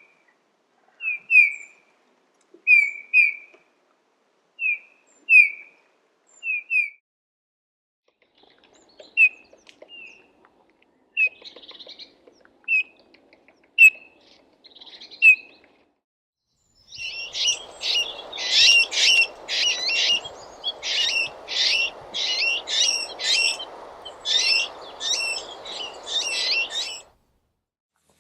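Eurasian bullfinch calling with soft, short whistled notes, mostly in pairs. About halfway through it breaks into a faster, denser run of higher notes over a steady background hiss.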